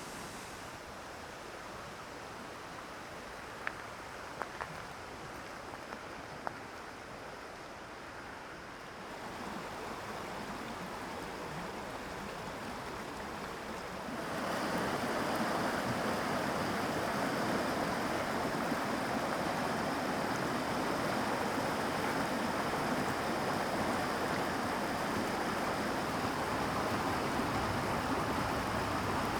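Rushing water of a mountain stream, a steady wash of noise that grows louder twice, most sharply about halfway through, with a few faint ticks early on.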